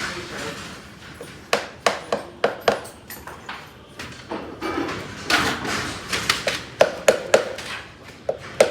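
Farrier's hammer tapping the nails of a horseshoe on a Shire horse's hoof to tighten them, in short runs of sharp, ringing taps.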